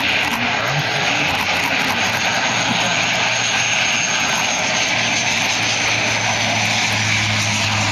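C-27J Spartan's twin Rolls-Royce AE 2100 turboprop engines and propellers running loud and steady, with a thin high whine over the noise and a low hum that grows stronger about two and a half seconds in.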